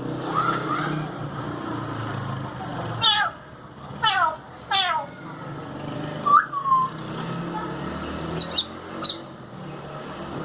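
African grey parrot giving short, meow-like calls. Each call drops quickly in pitch, three of them come between about three and five seconds in, and a brief whistled note and two sharp high squeaks follow later.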